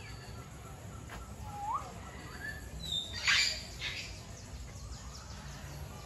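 Birds calling in a bird park's aviaries: scattered short chirps and whistled glides, one rising in pitch about a second and a half in. A brief harsh burst a little over three seconds in is the loudest sound.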